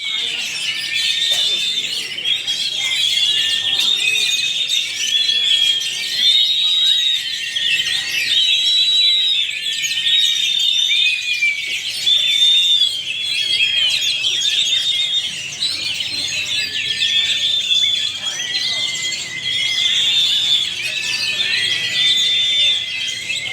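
Several caged Oriental magpie-robins (kacer) singing at once in a dense, overlapping chorus of repeated high whistled phrases, without a break.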